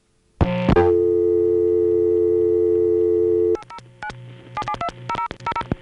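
A steady telephone call-progress tone on a long-distance line, heard for about three seconds. It is followed by a string of short clicks and brief tone blips on the line.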